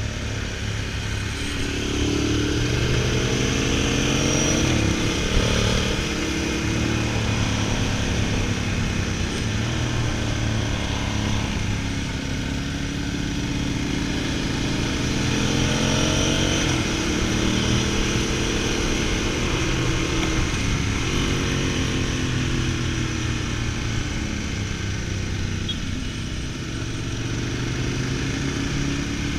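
V-twin motorcycle engine under way, its pitch climbing and dropping repeatedly as the throttle opens and closes, with steady wind rush over the microphone.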